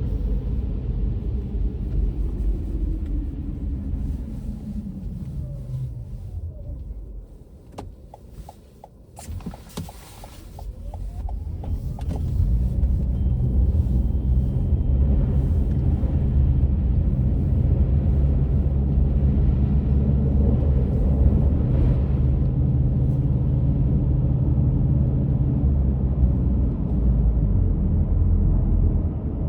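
Car engine and road rumble heard from inside the car. The car slows and the rumble falls away to a quieter few seconds with some light clicks, then it pulls away and runs on with a steady low rumble.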